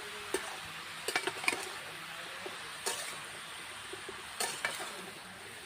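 Spoon stirring chopped bottle gourd in a kadai, with a handful of short scrapes and clinks against the pan over a faint steady hiss.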